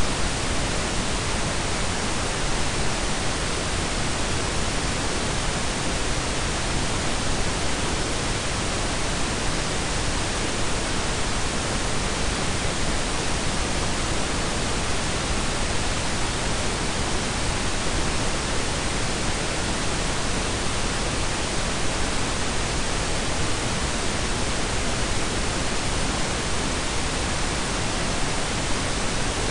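Synthetic pink and brown noise blended together: a steady, even hiss with a deep low rumble, unchanging throughout.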